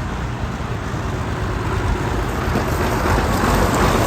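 Old tractor engines running at a vintage tractor gathering, getting louder about three seconds in.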